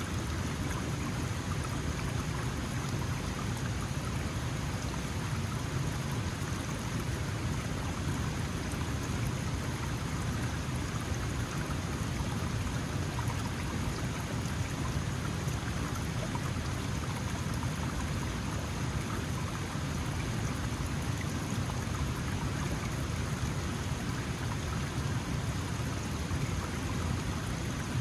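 Small mountain stream flowing and babbling steadily over rocks, a constant rushing with a deep low rumble.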